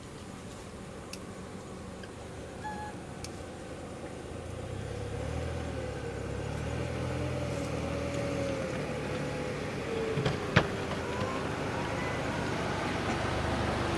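A motor vehicle's engine, a low rumble with a wavering whine that grows louder from about four seconds in. A single sharp click sounds about ten and a half seconds in.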